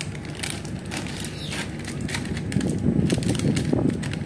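Passenger train running, heard from inside the coach: a steady low rumble with many short rattling clicks, growing louder and rougher about two and a half seconds in.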